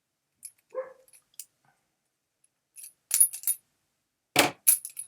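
Bicycle cassette sprockets and hub parts clinking and knocking as they are handled and fitted: a few light clicks, then two louder clusters of metal-on-metal knocks in the second half.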